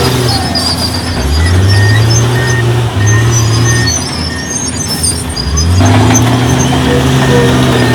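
Heavy diesel engine of earthmoving machinery revving up under load about a second in, easing off, then revving up again near the end and holding high. Faint short high squeaks recur throughout.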